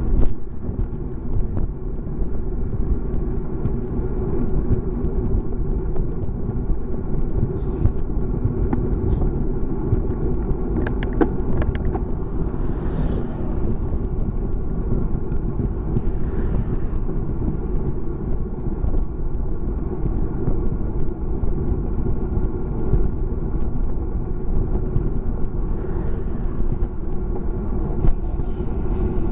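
Wind rush and road noise while riding a bicycle, a steady low rumble with faint tones and occasional small clicks.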